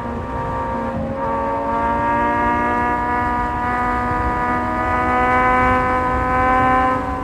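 Kawasaki Z1000 inline-four motorcycle engine under throttle. Its pitch dips about a second in, then climbs steadily for several seconds and drops again near the end, with wind rush underneath.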